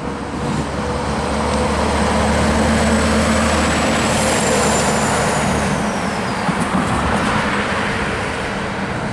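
Heavy truck driving by, steady engine and road noise, with a high whine that falls in pitch about halfway through.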